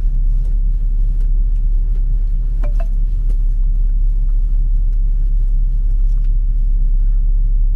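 Steady low rumble of a 2012 Ford Focus being driven, heard from inside the cabin. No knock or creak comes from the front suspension: its strut top plane bearings have just been replaced.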